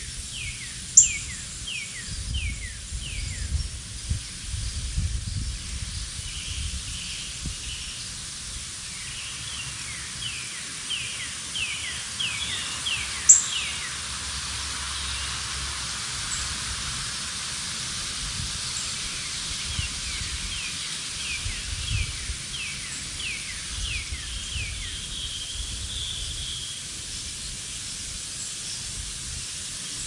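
Birds singing: runs of quick, downward-sweeping chirps, several in a row, with two sharp high chirps about a second in and about thirteen seconds in. Under them is a steady hiss and a low, uneven rumble.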